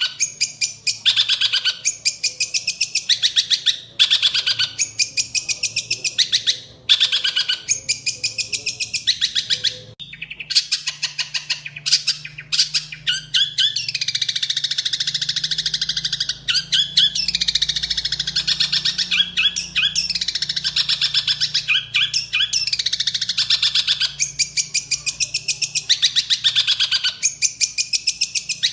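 Long-tailed shrike (cendet) singing a fast, harsh chattering song of rapidly repeated high notes. It comes in short bursts for about the first ten seconds, then runs almost without a break.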